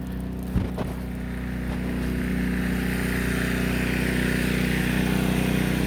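Pressure washer engine running steadily while water sprays from the rinse tip, the spray hiss growing louder partway through. A short knock about half a second in.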